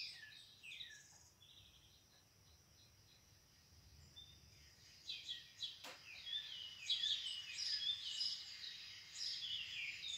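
Small songbirds chirping in quick series of short, high, falling notes. They fall quiet for a few seconds after the first second and start up again, busier, about five seconds in. A single sharp click sounds just before six seconds in.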